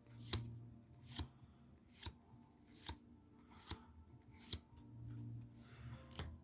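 Magic: The Gathering trading cards being flipped through one at a time, a short light snap about once a second.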